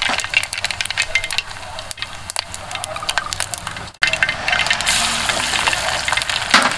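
Food sizzling in a pan with frequent light clinks of metal utensils. The sound drops out abruptly about four seconds in and comes back with a fuller sizzle.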